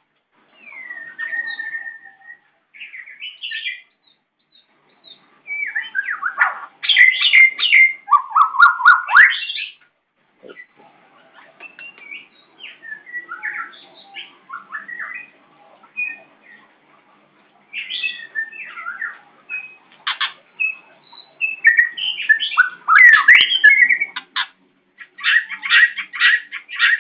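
White-rumped shama singing in short bursts of varied whistled and chattering phrases with pauses between them, loudest about six to nine seconds in and again over the last few seconds, where it gives quick runs of repeated notes.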